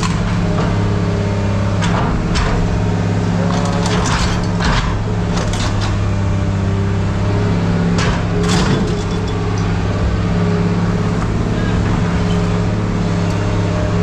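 Heavy machine engine running steadily with a constant low hum, with scattered sharp clanks and crunches of scrap metal being handled.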